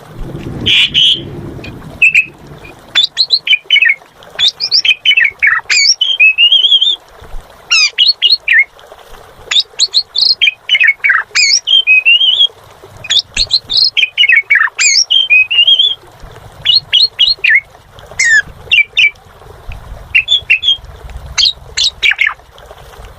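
Asian pied starling (jalak suren) singing energetically: a long, varied run of quick whistles, chirps and harsh squawky notes, in bursts with short pauses.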